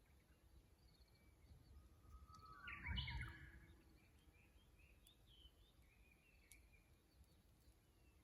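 Japanese bush warbler (uguisu) singing once, about three seconds in, a rising whistle breaking into a quick high phrase, with a low rumble under it. A few faint bird chirps follow.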